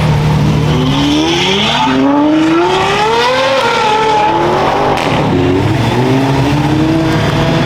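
Racing car engines accelerating, their pitch climbing for a couple of seconds and then easing off, over a steady lower engine drone. A second engine climbs in pitch again in the later half.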